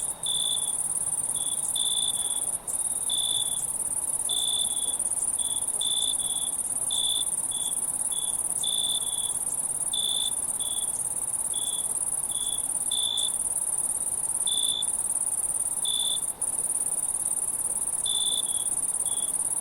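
Night insects chirping: a continuous high-pitched trill with shorter, lower chirps repeating irregularly about once or twice a second.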